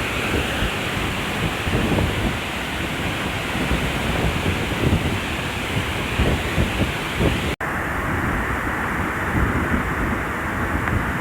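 Steady rush of falling water from a waterfall, with wind buffeting the microphone. About seven and a half seconds in the sound cuts out for a moment, then comes back duller.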